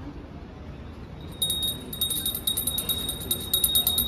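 A small metal bell rung rapidly and continuously, starting about a second and a half in: fast, repeated strikes with a bright, high ring, over a low background murmur.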